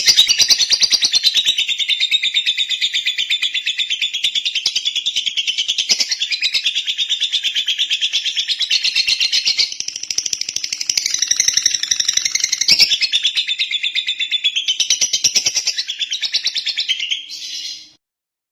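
Lovebird chattering in one long unbroken run of rapid, high-pitched chirps, stopping suddenly near the end.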